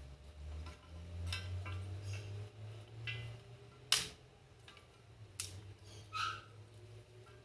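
Campfire crackling: scattered sharp pops, the loudest about four seconds in, over a low hum. Several short, high chirps are heard between the pops.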